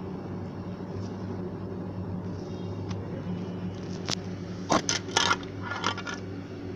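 Small hard objects clicking and clattering against each other: one sharp click, then a quick cluster of knocks and rattles, over a steady low hum.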